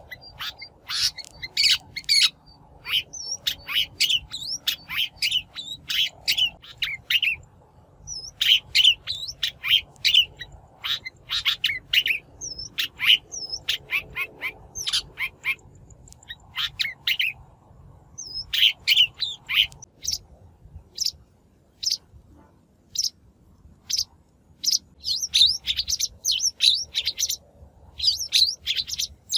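A shrike calling: rapid bursts of harsh, clicking chatter mixed with short slurred whistled notes, broken by brief pauses.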